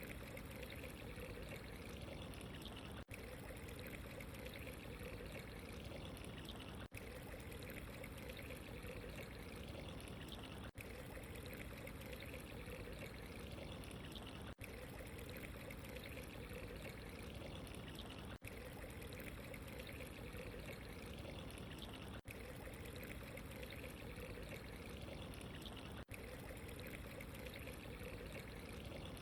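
Steady ambience of flowing, trickling water, with a very short dip in level about every four seconds where the recording loops.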